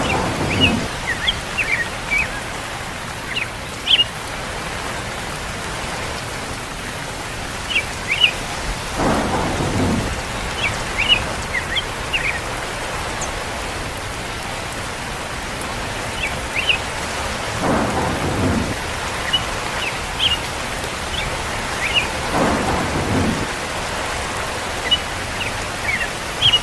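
Steady rain falling, with a short rumble of thunder about four times.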